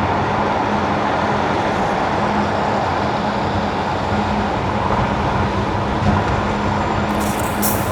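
Car driving on wet winter asphalt: steady tyre and road noise with a low hum, and a brief high hiss near the end.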